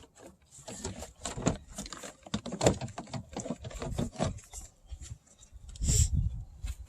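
Plastic car door trim being handled and fitted back into place by hand: irregular clicks, taps and rubbing, with a duller thump about six seconds in.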